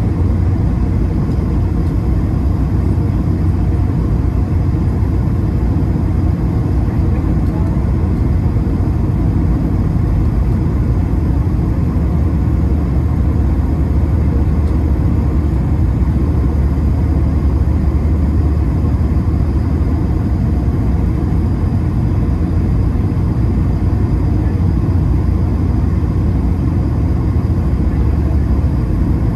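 Steady low rumble inside the cabin of an Airbus A220-300, the sound of its Pratt & Whitney PW1500G geared turbofans and the airflow heard from a window seat.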